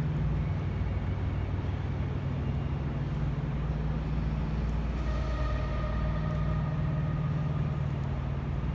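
Steady low mechanical drone, with a faint higher whine from about five to eight seconds in.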